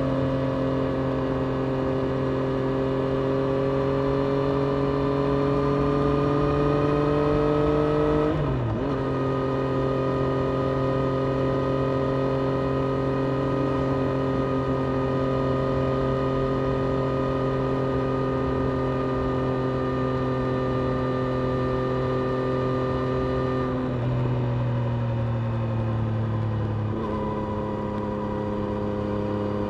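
Triumph Street Triple RS's 765 cc three-cylinder engine running at steady part throttle on the move, heard from on board. Revs climb slowly, then drop sharply at an upshift about eight seconds in, hold steady, and step down twice more near the end.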